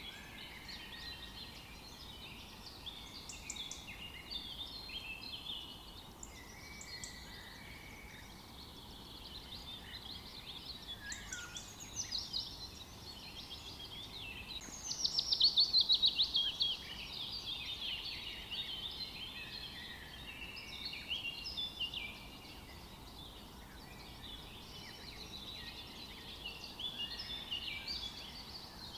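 Several small songbirds singing and calling together in a forest, over a faint steady background hiss. About halfway through, one bird gives a loud, rapid run of notes that falls in pitch.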